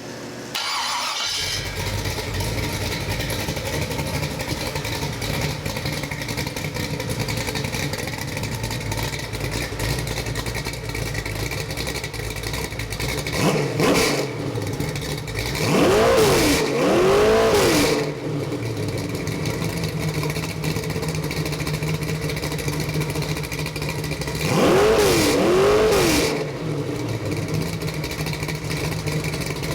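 Chevy 327 small-block V8 crate engine with a thumper cam, cranked and firing about a second in, then idling steadily. It is revved several times, once on its own and then in pairs of quick blips that rise and fall back to idle.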